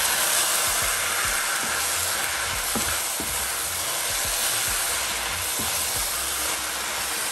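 Cooked beans sizzling in a hot stainless-steel saucepan with the fried vegetable mixture as they are stirred with a spatula: a steady sizzle with light scrapes and knocks of the spatula against the pan.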